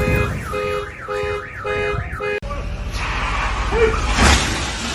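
Car alarm sounding a rapid up-and-down warble over pulsing steady tones, cut off abruptly about halfway through. It gives way to steady road noise with a sudden thump near the end.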